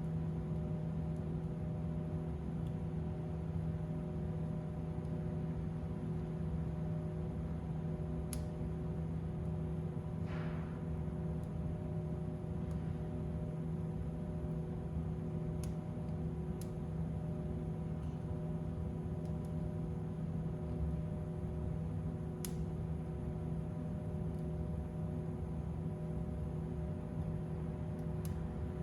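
Fireplace fire burning with a steady low rumble and hum, broken by a few sharp, isolated crackles and pops and a brief hiss about ten seconds in.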